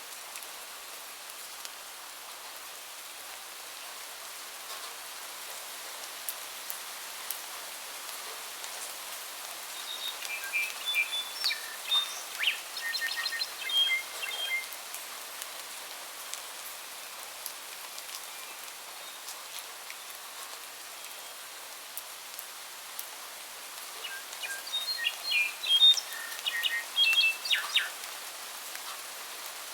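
Steady rain falling, with a songbird singing two phrases of quick, high chirping notes, one about ten seconds in and one near the end.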